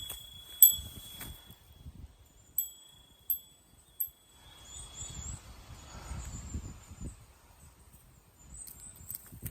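A small metal bell rings with a single clear tone, struck about five times in the first four seconds as it swings. After that come faint low rustles and scuffs, like footsteps on the trail.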